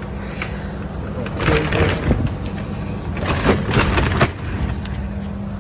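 Box truck's metal roll-up rear door rattling and clattering as it is pulled down shut, in two bursts of rattling over a steady low hum.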